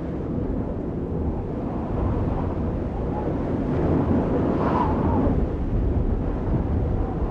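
Steady low rumble of an audience in a hall after a performance, with faint voices at times.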